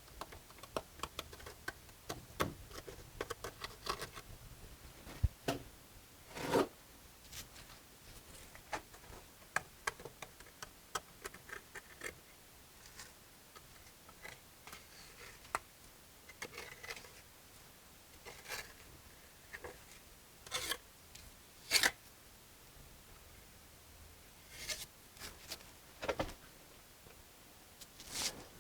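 Mason's trowel scraping and tapping as mortar is packed and smoothed onto a brick wall: irregular scrapes and small clicks, with a few sharper knocks.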